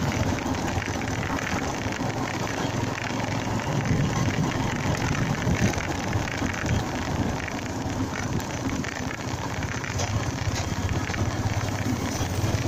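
Motorcycle riding along, its engine running under a steady rush and crackle of wind buffeting the microphone.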